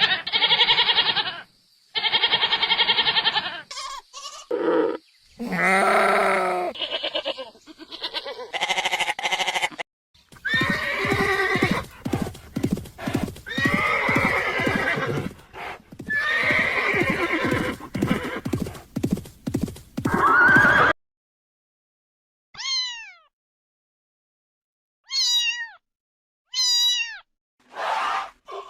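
A run of different animal calls one after another: several pitched, wavering calls through the first twenty seconds or so, then after a short pause a few brief, sharply falling high calls near the end.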